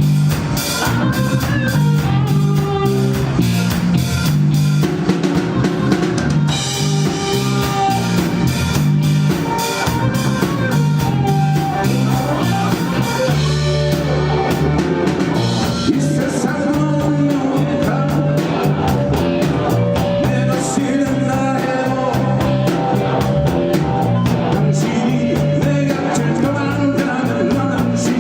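Live band playing amplified pop-rock, with a drum kit keeping a steady beat under bass and guitar.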